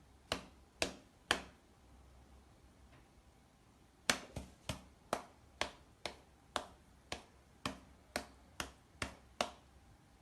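Sharp taps: three about half a second apart, then after a pause of about three seconds a run of about a dozen more at roughly two a second.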